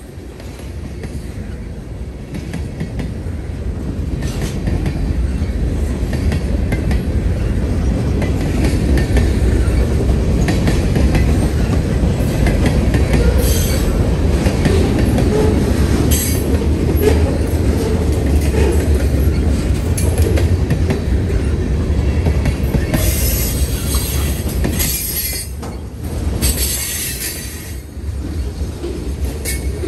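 Freight train cars rolling past close by: a steady low rumble of steel wheels on the rails, with brief high-pitched wheel squeals flaring up several times, the strongest in the second half.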